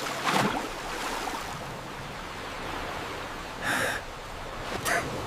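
Steady soft rushing background noise, like a stream or wind, with a short, bright sound about three and a half seconds in.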